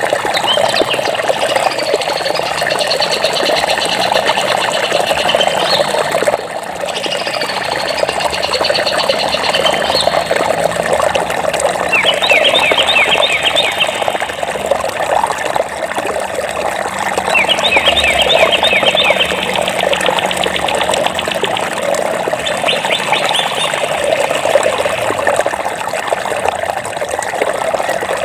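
Running water flowing steadily, with birds singing over it: high arching whistled phrases in the first ten seconds, then rapid trills in the middle and later part.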